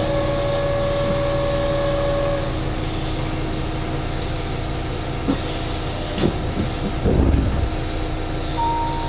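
Keihan Main Line electric train in a tunnel: a steady low rumble heard from just behind the driver's cab. A whine holds one pitch for the first two seconds or so, there is a low thump about seven seconds in, and two short tones come near the end.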